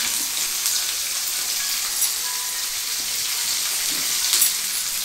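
Chopped onion and capsicum sizzling in hot oil in a kadai over high heat: a steady frying hiss with a few brief crackles.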